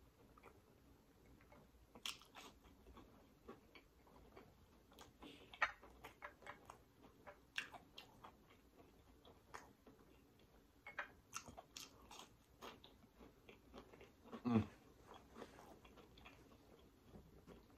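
Close-up chewing and biting of crispy breaded fried tilapia dipped in sauce: irregular crisp crunches and wet mouth clicks, with one louder, deeper mouth sound about three-quarters of the way through.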